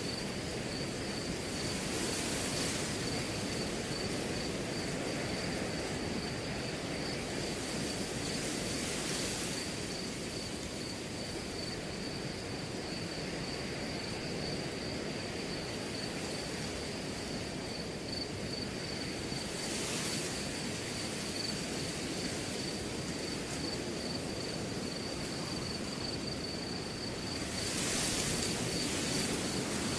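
Wind blowing through a grass field: a steady rushing noise with swells of rustling every several seconds, under a cricket's continuous high trill.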